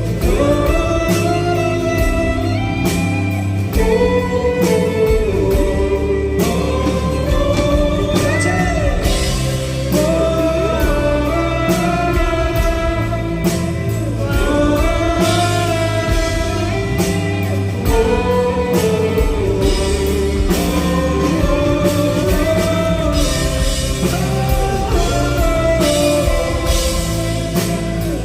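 Live band music, loud and continuous, with guitar and drum kit under a sustained melodic line.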